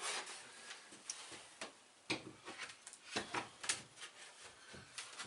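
Light, irregular knocks and taps of a wooden filler piece being fitted into a window opening, a few sharper knocks among them.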